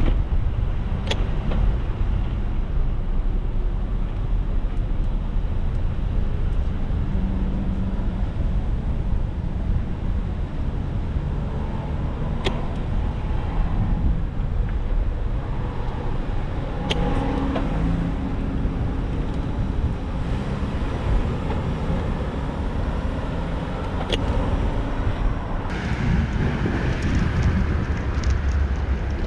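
Road traffic with cars passing, under a steady low rumble of wind on the microphone, with a few sharp clicks.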